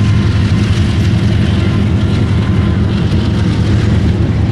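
Empty oil tank cars of a freight train rolling past, a steady loud low rumble.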